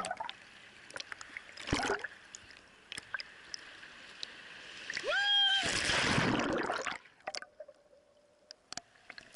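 Sea water splashing and sloshing close around the camera, with many sharp knocks of water hitting it. About five seconds in a high voice cries out briefly, and a wave rushes over for about a second and a half before it goes quieter.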